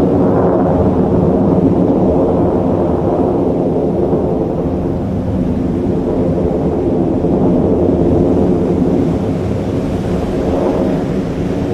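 Fighter jet engine noise: a loud, deep, continuous rumble that eases a little near the end.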